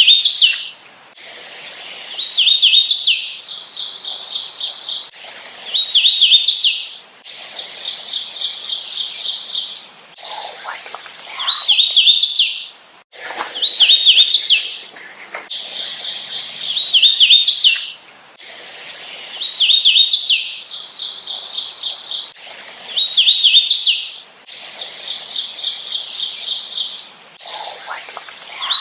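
Hooded warbler singing over and over, a song about every three seconds: a quick run of clear whistled notes ending in an emphatic rising flourish. Between songs come fainter runs of rapid, evenly spaced notes.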